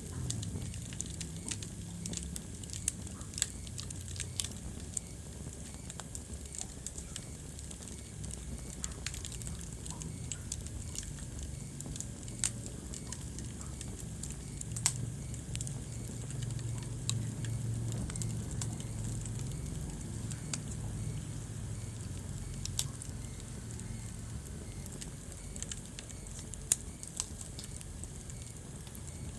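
Wood fire in a fireplace crackling, with irregular sharp pops scattered over a steady low rumble of the flames.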